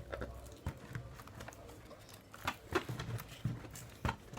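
Irregular light clicks and knocks from handling welding rods and their packet, about half a dozen at uneven intervals.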